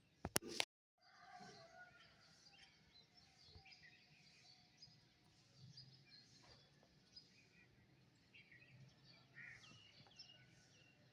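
Faint birdsong from several birds: scattered chirps and short whistled calls. A few sharp clicks, the loudest sounds here, come about half a second in, followed by a brief moment of dead silence.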